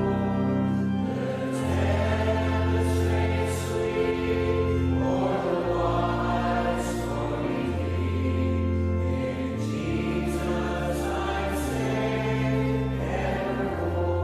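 Choir singing a slow gospel song over sustained low chords that change every two seconds or so.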